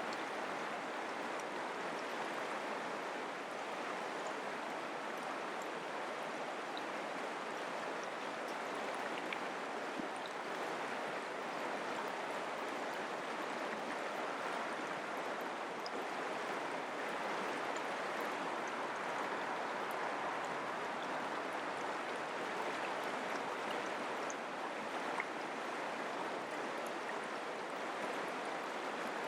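Mountain creek flowing over rocks: a steady, even rush of running water.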